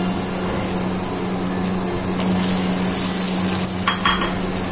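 Onion-and-spice masala frying in oil in a pot, with a steady sizzle and a wooden spatula stirring it. About four seconds in there is a short clatter as tomato paste goes into the pot. A steady low hum runs underneath.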